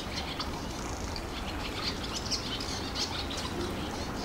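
Small birds chirping and twittering in quick, short high notes, over a low steady background rumble.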